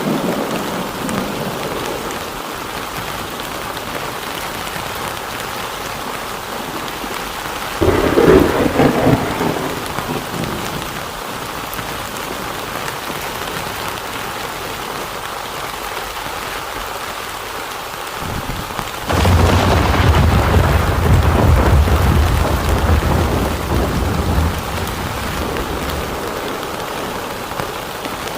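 Heavy rain falling steadily, with a short clap of thunder about eight seconds in and a louder, deep rolling thunder clap later that dies away over several seconds.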